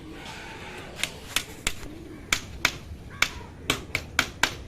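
Hammer tapping small nails into a thin wooden batten to fix the cage's bottom netting: about ten sharp strikes in uneven runs, starting about a second in.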